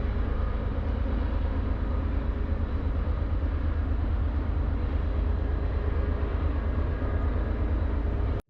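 Freight train rolling past, a steady low rumble that cuts off suddenly near the end.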